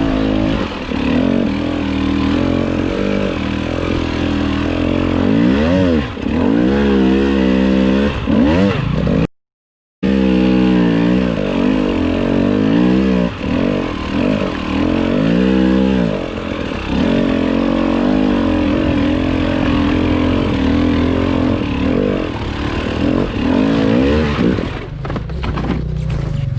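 Enduro dirt bike engine revving up and down over and over as the bike is ridden, with the sound cutting out completely for about half a second around nine seconds in. Near the end the engine drops to a low steady note.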